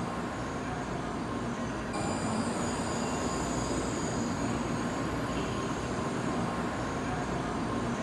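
Shinkansen high-speed train running steadily: a constant rumble and rushing noise with faint steady hums, growing a little louder and hissier about two seconds in.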